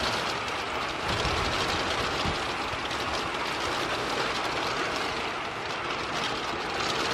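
Strong wind blowing across the microphone: a steady rushing noise with a rough, rumbling low end.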